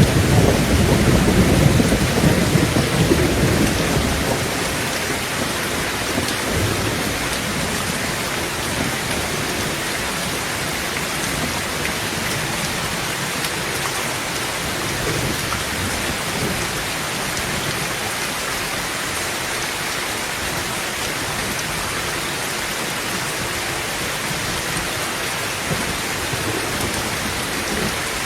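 Heavy rain falling steadily on a tin tent roof. A roll of thunder rumbles at the start and dies away over the first few seconds.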